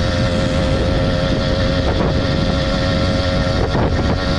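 Small motorbike engine running at steady high revs while riding, holding one pitch, with wind rushing over the microphone. The bike has a new sprocket and is slow to build speed.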